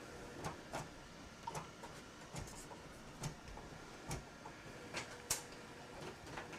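Printer running a print job on cardstock, heard faintly as irregular clicks and ticks, about a dozen spread unevenly.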